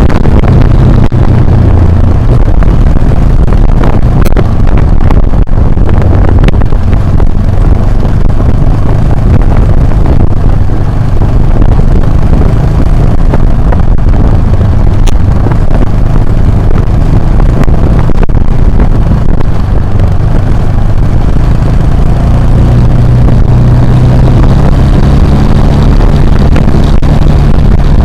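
Motorcycle engine running steadily under way off road, loud and close on an action camera's microphone, with rough noise over it. The engine pitch rises slightly near the end.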